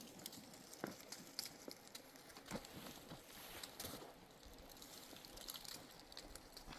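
Faint, sparse knocks of steps on stony ground over a quiet outdoor background.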